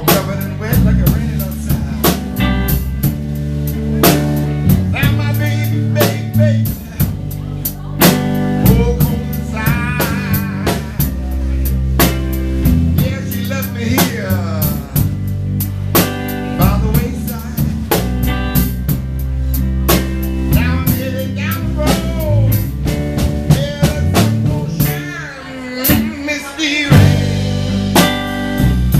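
A blues trio playing live: a guitar plays lead lines with bent notes over bass and a drum kit keeping a steady beat.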